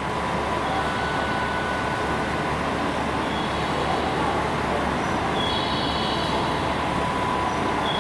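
A train moving at the platform: a steady rumble and rolling noise, with brief high-pitched tones in the last few seconds.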